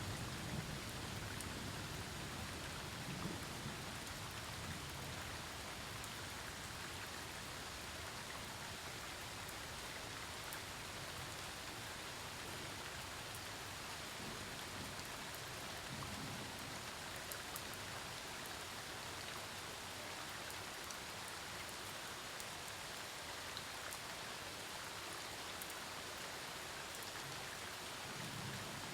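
Steady rain falling on surfaces during a thunderstorm, an even hiss. A low thunder rumble dies away in the first couple of seconds, and faint low rumbles return now and then.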